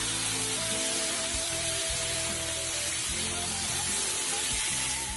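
Chicken pieces sizzling steadily as they fry in a hot frying pan, with soft background music of held notes underneath.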